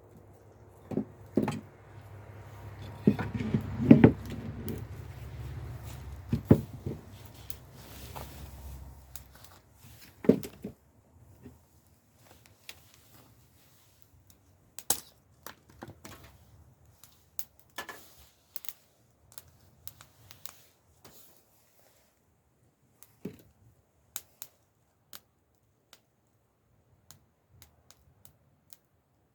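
Knocks and rustling handling sounds over a low rumble for about the first ten seconds, then scattered, irregular sharp crackles and pops from a small wood campfire.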